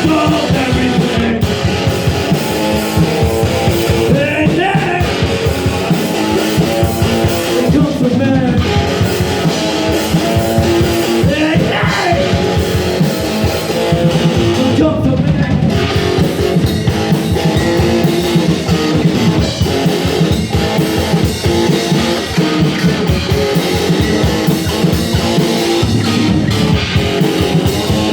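Rock band playing a song: guitar and drum kit with a steady fast beat, and singing at times.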